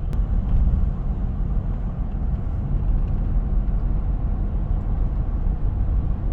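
Steady low rumble of road and engine noise inside the cabin of a 2021 Jeep Wrangler with the 3.0 L EcoDiesel V6, cruising at a constant speed while its exhaust filter regenerates.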